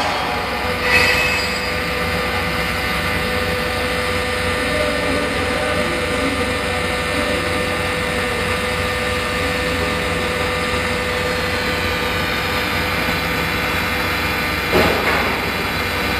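Automatic circular-seam argon arc welding machine running: a steady hum with a held tone through most of it, and a short louder burst about a second in and again near the end.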